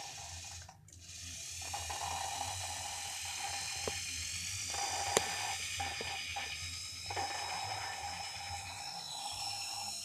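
Electric drill running with a high whine that climbs slightly in pitch partway through, its pitch shifting and dropping out briefly several times, with one sharp click about five seconds in.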